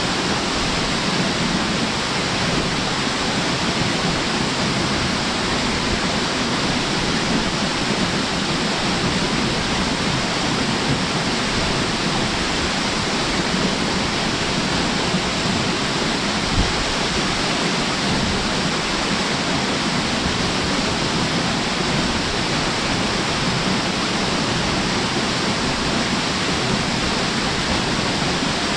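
A strong-flowing waterfall rushing with a steady, dense roar of falling water. A single brief low thump comes about two-thirds of the way through.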